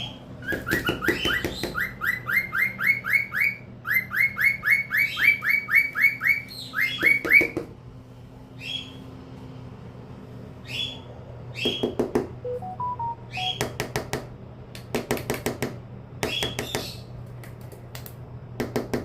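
A bird giving fast runs of short rising chirps, about four or five a second, mixed with sharp taps or knocks, as if pecking at wood. In the second half the chirping stops and the taps come in scattered groups.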